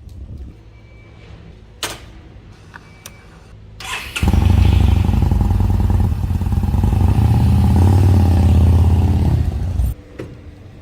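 Yamaha SCR950's air-cooled V-twin starting about four seconds in and running steadily and loudly, cutting off suddenly near the end.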